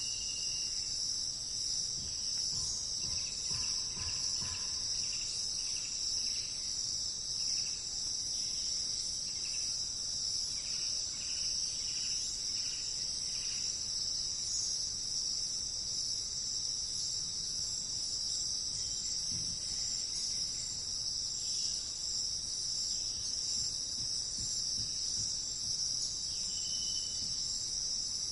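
Steady, unbroken high-pitched insect chorus in a forest, with faint short bird chirps scattered through the first half and again near the end.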